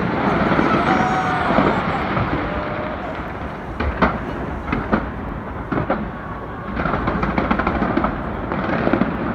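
Fireworks going off: a few sharp bangs, then bursts of rapid crackling, over the chatter of a large crowd.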